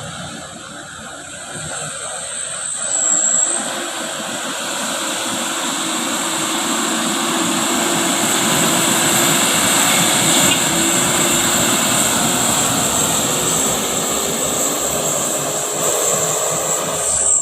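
Truck engine running hard under load, its sound building over the first few seconds and then holding steady, with a faint whine that slowly rises in pitch.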